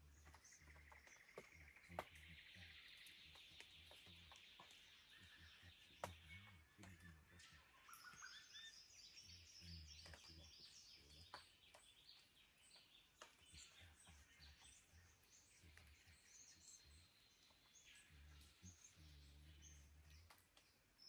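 Australian forest birds calling at dawn: a rapid trill for the first several seconds, then runs of quick, high notes and a short rising whistle. A few sharp clicks and a faint low rumble come and go beneath.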